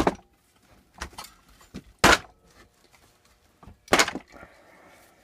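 Several sharp metal strikes, the loudest about two seconds in: hammering and prying at a rust-seized blade adapter stuck on a lawn mower engine's crankshaft.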